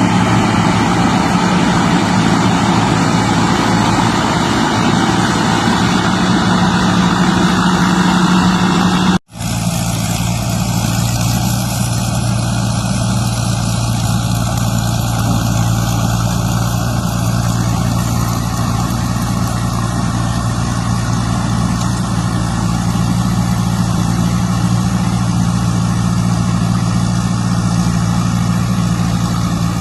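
Combine harvester's engine running steadily with mechanical clatter from the machine. About nine seconds in, the sound cuts out for an instant and resumes with a slightly different, lower engine tone.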